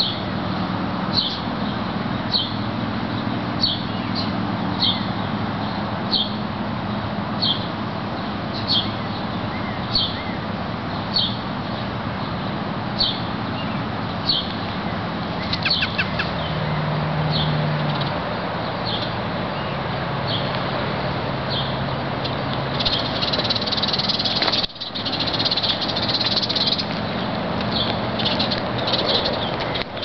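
A bird chirping over and over, one short high chirp about every second and a quarter, over steady outdoor background noise.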